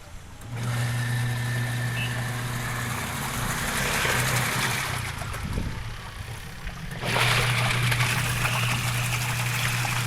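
Washing machine motor running with a steady hum and water swishing in the tub. The hum stops for about two seconds midway and then starts up again, as when the agitator pauses and restarts during a wash.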